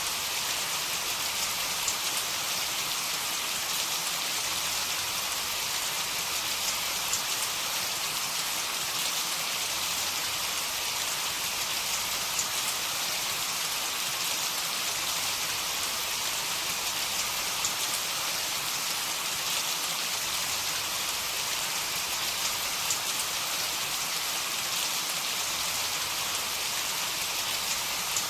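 Steady heavy rain: an even hiss of rainfall with scattered individual drop ticks, no thunder.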